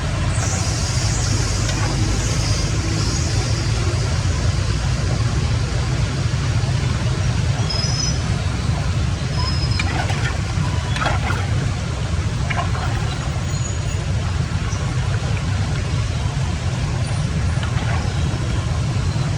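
Water rushing steadily, with a deep rumble underneath and a few faint short knocks.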